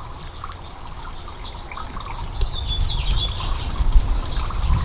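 Small birds chirping in quick, high twittering notes that pick up about halfway in, over a steady low rumble.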